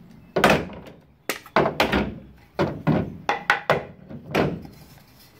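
A quick irregular series of wooden knocks and thunks, about a dozen in all: clamps and boards being knocked loose and handled after drilling through the stacked wood.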